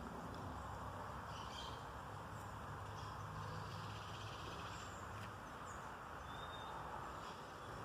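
Woodland ambience: a steady background hiss and low hum with faint, scattered bird chirps.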